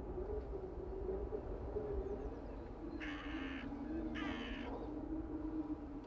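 A bird calling twice, each call about half a second long and about a second apart.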